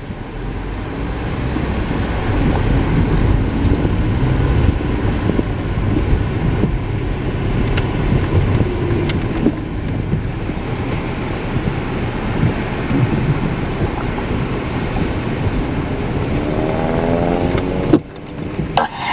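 Car engine and road noise, a steady low rumble, with the engine's pitch rising as the car accelerates near the end before the sound cuts off abruptly.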